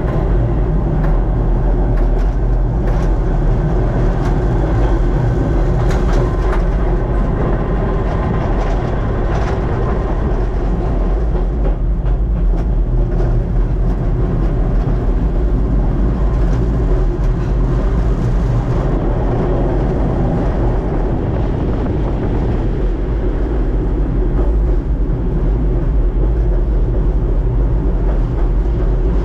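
Kurobe Gorge Railway narrow-gauge trolley train running along its track, heard from the driver's cab: a loud, steady rumble of wheels on rail, with scattered clicks through the first ten seconds or so.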